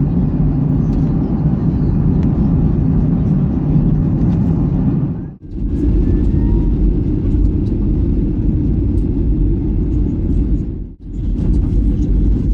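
Steady low rumble of engine and airflow noise inside the cabin of a Boeing 737-800. The sound drops out abruptly twice, about five and eleven seconds in.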